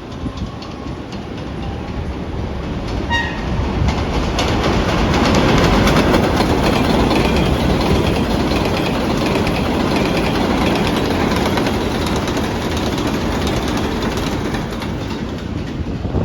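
R188 subway train running along the elevated Flushing Line track with a clickety-clack of wheels on rail. It grows louder over the first five seconds, then stays loud and steady. A short pitched tone sounds about three seconds in.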